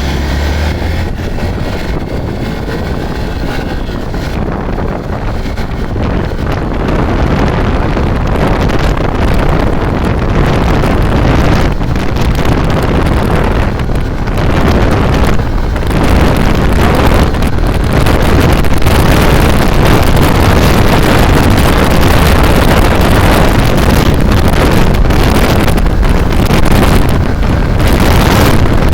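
Hero XPulse 200 4V's single-cylinder engine running hard as the motorcycle accelerates toward top speed, growing louder over time. Heavy wind noise buffets the microphone.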